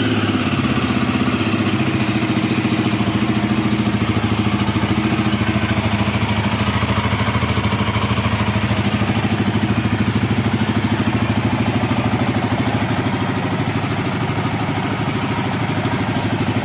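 Royal Enfield Himalayan 450's single-cylinder engine idling steadily just after a morning cold start, with an even pulsing beat.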